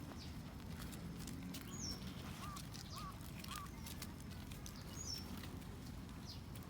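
Faint bird chirps over a steady low outdoor rumble: two short high chirps and, around the middle, three soft calls in a row.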